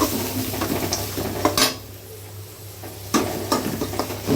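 A spatula scraping and knocking against a pan as sliced onions and green chillies are stirred in sizzling oil with whole spices. The strokes come in two spells with a quieter pause between them.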